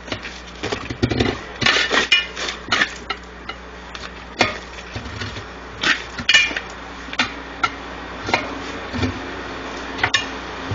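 Metal tools clanking, clinking and scraping against a truck wheel rim and tire as the tire is pried off by hand with screwdriver pry bars. The knocks come irregularly, with a spell of scraping about one to three seconds in and sharper clanks near the middle and near the end.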